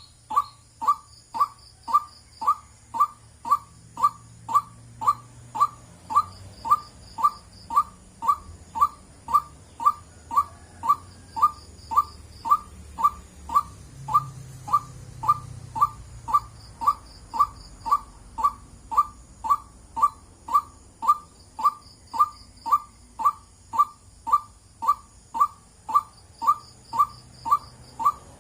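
White-breasted waterhen calling, a monotonous single note repeated evenly just under twice a second without a break.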